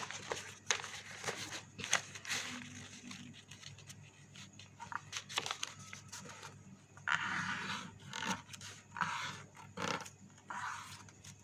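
A sheet of coloured chart paper being folded and creased by hand: short crinkles, taps and rustling scrapes as the paper is turned and pressed flat.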